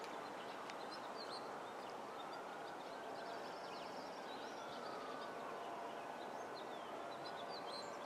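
Quiet outdoor ambience: a steady background hiss with small birds chirping in short high notes throughout, and a faint drawn-out tone that slowly rises and falls in pitch through the middle.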